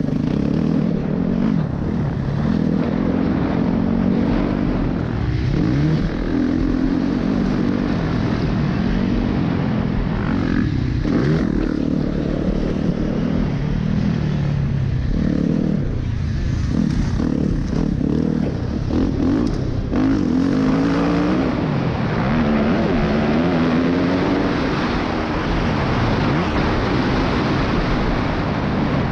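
Dirt bike engine being ridden hard around a track, its pitch rising and falling over and over as the rider accelerates, shifts and backs off into turns.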